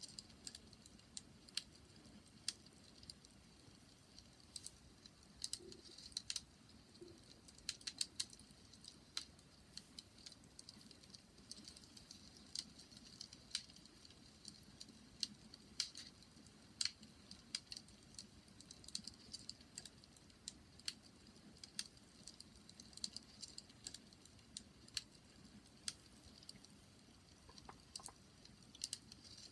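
Wood fire crackling: irregular sharp pops and snaps, several a second, over a faint low rumble of burning.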